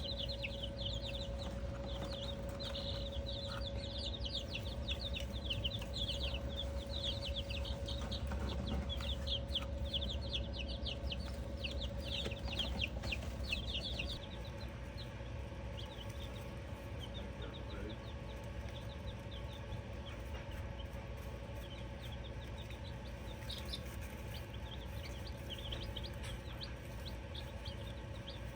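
Baby chicks peeping: many rapid, high chirps at once for about the first half, then fewer and sparser after a drop in level. A steady hum runs underneath.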